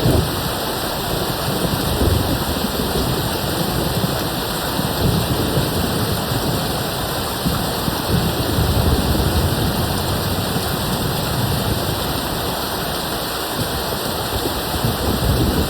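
Steady rain hissing, with a low, uneven rumble of distant thunder that swells and fades underneath it.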